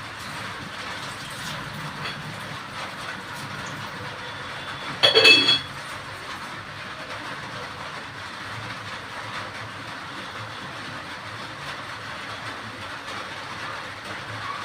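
Curry masala cooking in a pot on the stove, giving a steady hiss while it waits to turn sour before the fish goes in. About five seconds in there is one short, loud metallic clink with a brief ring.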